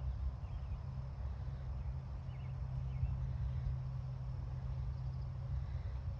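Steady low outdoor rumble with a few faint bird chirps in the first three seconds.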